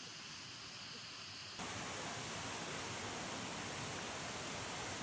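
Steady rushing outdoor ambience with no distinct events, turning a little louder and brighter about one and a half seconds in.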